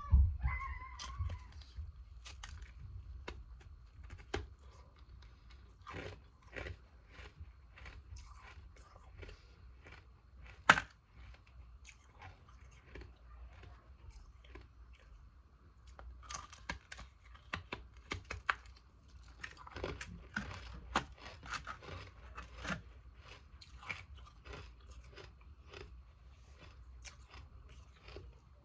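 A person biting and chewing frozen ice pieces close to the microphone: a run of crisp crunches and cracks. One sharp, loud crack comes about eleven seconds in, and the crunching comes thicker in the second half.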